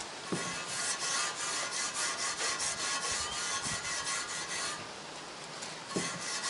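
Steel wool scrubbing a rusty, vinegar-soaked lathe part in quick back-and-forth strokes, about three a second, easing off for about a second near the end before starting again.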